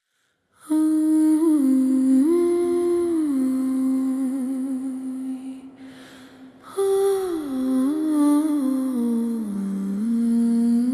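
AI-generated song's intro: a voice humming a slow wordless melody in two phrases, with a short break about halfway through.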